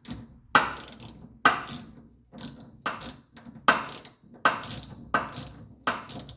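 Hand socket ratchet worked back and forth in short strokes: a sharp click on each of about eight strokes, with lighter pawl clicking between them, undoing a fastener to remove the steering rack.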